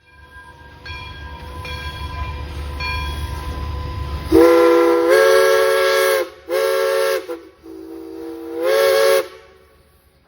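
PRR 643 locomotive's chime whistle blowing three blasts (long, short, long) over the train's low rumble, with a hiss of steam under each blast. The pitch shifts a little within the blasts as the whistle is worked.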